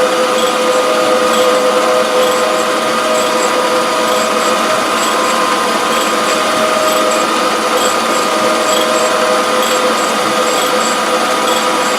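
Surface grinder running steadily, its motor and spinning wheel giving a constant hum with a few steady tones, with light high ticks about twice a second.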